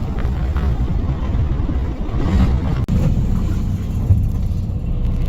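Small fishing boat's engine running: a steady low rumble.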